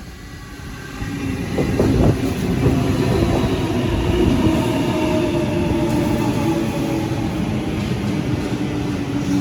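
A Sydney electric passenger train running through the station, growing loud about a second in, with a steady rumble of wheels on rail and a motor whine that falls slightly in pitch.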